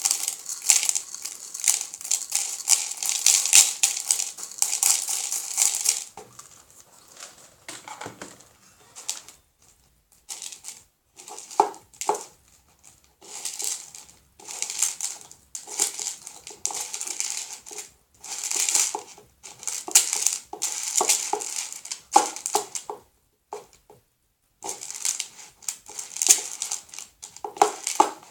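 Homemade glue slime with small rubber bands mixed in, squeezed and kneaded by hand, making dense crackling, squishing sounds. It goes steadily for about six seconds, then comes in repeated bursts of a second or two with short pauses between.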